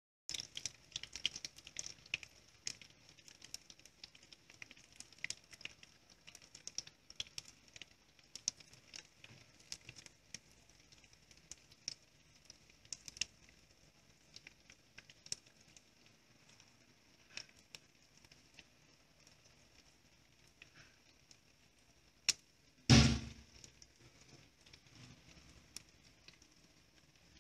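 Chicken nuggets shallow-frying in oil in a pan: a faint steady sizzle with scattered sharp pops and crackles, thicker in the first half and thinning out later. Near the end a sharp tap comes, then a much louder knock.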